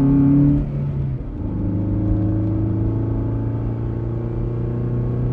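Cartoon vehicle engine sound effect running steadily, its pitch dropping a step about a second in.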